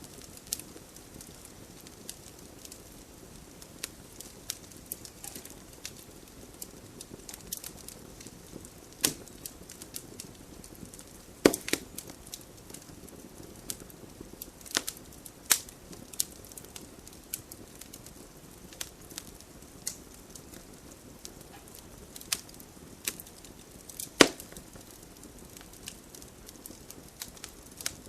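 Wood campfire burning: a soft steady hiss with irregular crackles and sharp pops, a few louder snaps standing out now and then.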